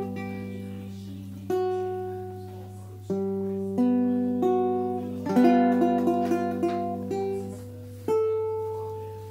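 Baritone ukulele tuned D-G-B-E with a low D, strummed chord by chord, each chord left to ring and fade before the next, with a last chord near the end.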